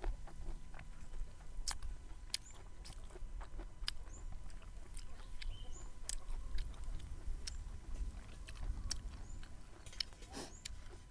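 Close-up eating sounds: crisp, irregular crunches and clicks of raw young bamboo shoot being bitten and chewed.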